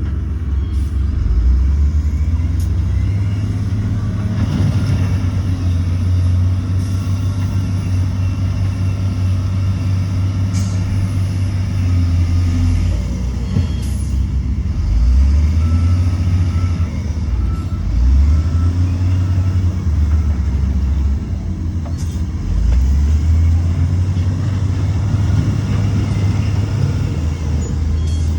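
Diesel engine of heavy earthmoving machinery working. A deep, loud rumble swells and eases every few seconds as the load changes.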